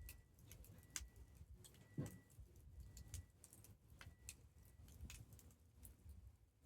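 Wood campfire crackling: irregular small pops and snaps over a low rumble of the flames, with a faint high whistle coming and going.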